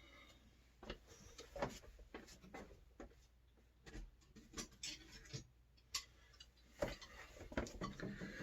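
Faint, irregular clicks and light scraping as a water heater element is turned by hand into the tank's threaded port, metal threads catching as it goes in.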